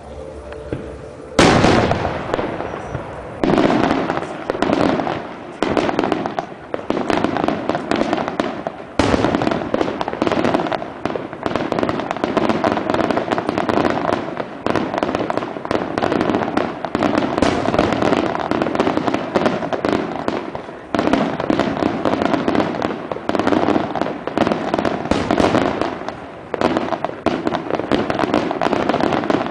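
Aerial fireworks display: a loud bang about a second and a half in, then a dense, continuous barrage of shell bursts and crackle, with fresh heavy salvos about nine seconds in and again about twenty-one seconds in.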